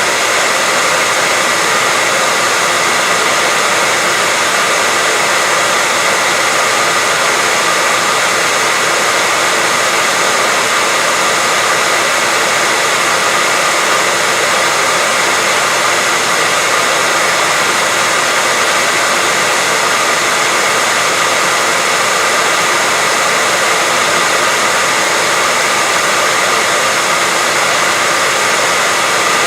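White noise: a loud, steady hiss that does not change or break.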